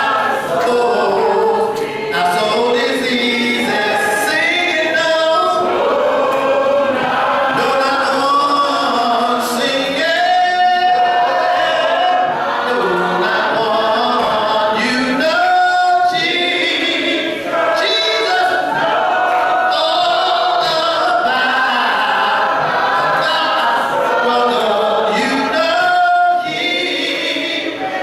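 Church congregation singing a hymn together a cappella, many voices with no instruments, pausing briefly between phrases.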